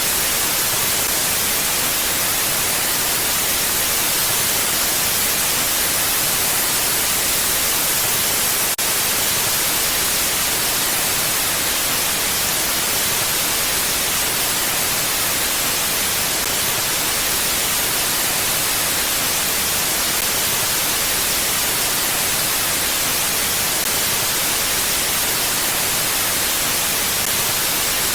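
Steady rush of mountain wind, an even, hissy noise like static with no gusts or swells. A faint tick sounds about nine seconds in.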